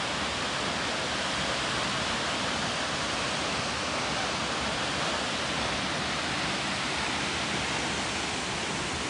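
A large waterfall's water rushing, a steady even roar with no breaks.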